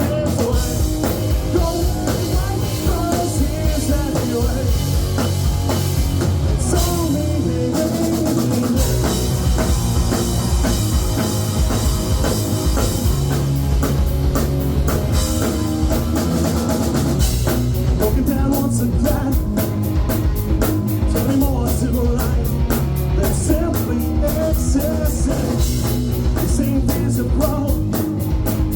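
Rock song played by a full band with drum kit and singing; the cymbal beat becomes sharper and more prominent about two-thirds of the way through.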